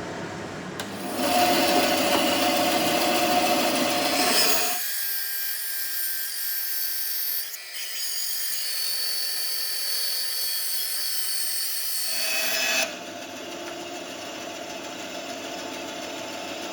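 A power tool working on the knife handle, in several short clips that change abruptly, with a steady motor tone under the noise at the start.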